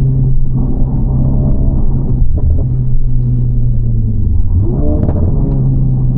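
Honda Civic FL5 Type R's turbocharged 2.0-litre four-cylinder heard from inside the cabin through an HKS Legamax exhaust with aftermarket downpipe: a steady low drone that dips in pitch and climbs back about five seconds in.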